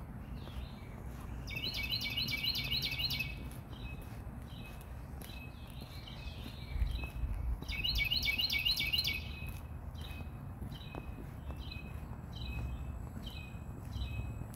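Bird singing: two bursts of rapid repeated chirps, about two seconds in and again about eight seconds in, with softer scattered calls between, over a low steady background rumble.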